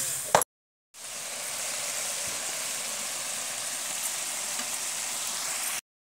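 Spiced onion-masala paste frying in an iron kadai over a wood fire. A few spatula scrapes at the start, then a short dropout, then a steady sizzle that cuts off near the end.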